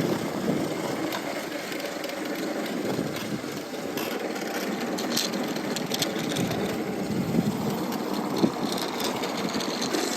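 Titanium e-bike with a Lightning Rods drive motor running steadily while riding, its motor and drivetrain sound mixed with tyre noise.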